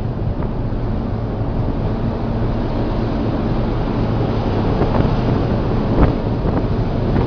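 Strong wind buffeting the microphone over a rough sea, with waves rushing and splashing and a louder wave crash about six seconds in.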